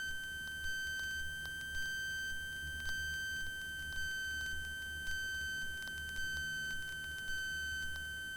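Cockpit intercom audio of a Cessna 172 in flight: a steady high electronic tone, with a fainter tone an octave above, sits over the engine and propeller's low drone, and faint ticks come about once a second.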